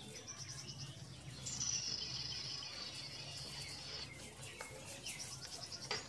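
Small birds chirping in the background, with a long buzzy trill from about a second and a half in to about four seconds, over a low steady hum.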